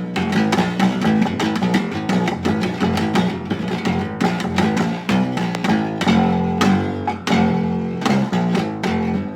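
Plucked string instrument played fast: a lively run of picked and strummed notes with no singing.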